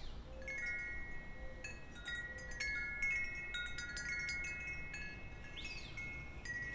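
Wind chimes ringing in a breeze, many overlapping tones struck irregularly and left to ring, over a steady low rumble. A short falling chirp sounds near the end.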